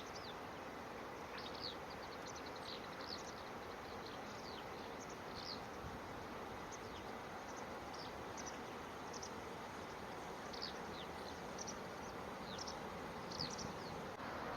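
Small birds giving many short, thin, high-pitched chirps that sweep downward, scattered irregularly across the whole stretch, over a steady outdoor background hiss.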